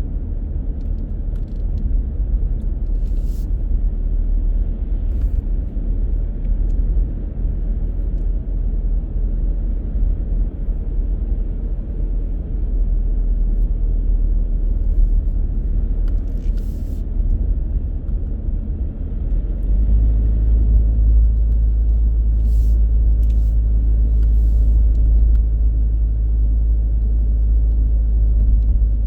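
A car driving, with a steady low rumble from the engine and tyres on the road. The rumble gets louder and more even about twenty seconds in.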